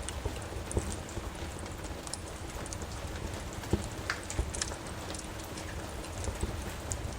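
Steady rain hiss with a wood fire crackling, its irregular sharp pops and snaps coming through over the rain.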